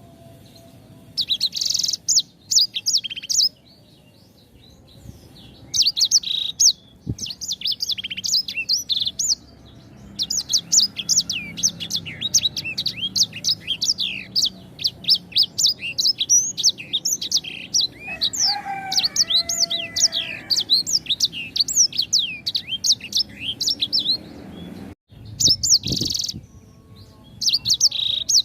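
Small songbird (the 'sanger') singing in rapid bursts of high-pitched chirps, sweeps and trills, broken by short pauses. A lower warbling phrase comes partway through.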